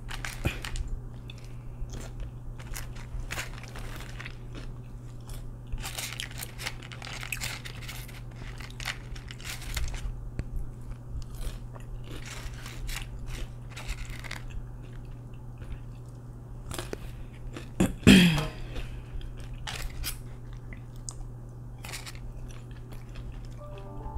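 Close-miked chewing and crunching of waffle fries dipped in sauce, in irregular bites and chews, with one louder brief noise about three-quarters of the way through.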